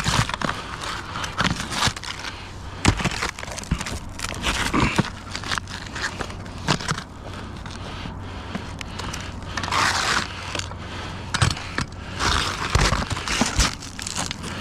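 Irregular clicks, knocks and scraping, with crinkling, like materials being handled and shifted.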